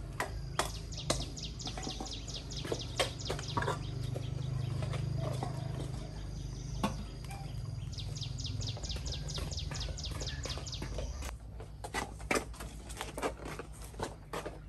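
A bird calling in two runs of rapid, evenly spaced high chirps, over a steady low hum, with scattered sharp knocks and clicks that come thicker near the end.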